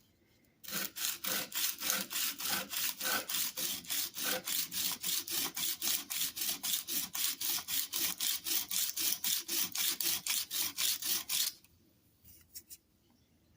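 Hand plane chip breaker being lapped: the steel part rubbed back and forth on an abrasive surface in fast, even scraping strokes, about four a second, which stop near the end and are followed by a couple of light clicks.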